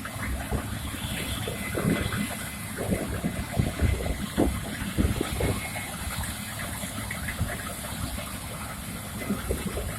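Combine harvester running in the field: a steady noisy rumble with irregular low thumps.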